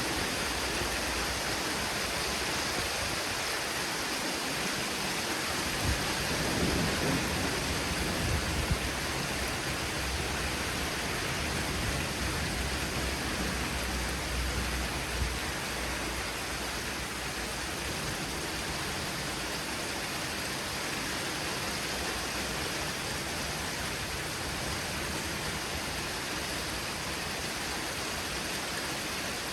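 Heavy thunderstorm rain falling steadily as an even hiss. Low thunder rumbles for several seconds, starting about six seconds in.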